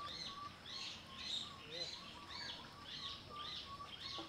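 Birds chirping: a quick run of short high chirps, about three a second, over a faint, steady higher tone.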